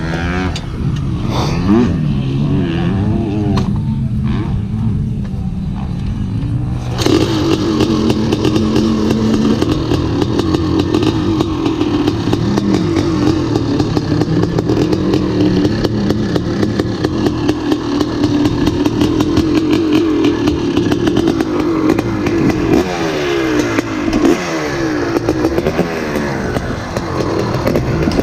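Two-stroke dirt bike engine running under way, its pitch rising and falling as it revs. The sound turns suddenly louder and rougher about seven seconds in.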